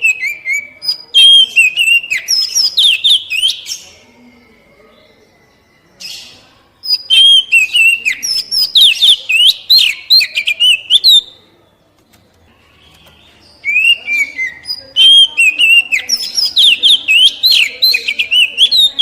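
Oriental magpie-robin (kacer) singing in three bouts of fast, varied whistled phrases and trills, with short pauses between bouts.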